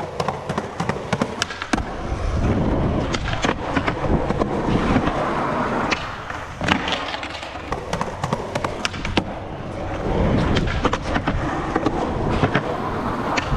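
Skateboard wheels rolling over rough pavement, the rolling rising and falling in waves, with many sharp clacks and knocks of the board.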